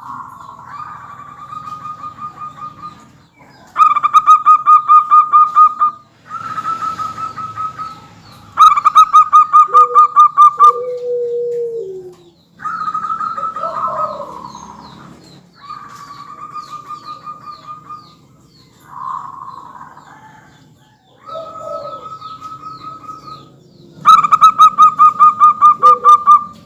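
Zebra doves (perkutut) calling: phrase after phrase of rapid, pulsed trilling notes, each phrase about two seconds long with short breaks, several loud ones standing out. Lower falling coos come in between.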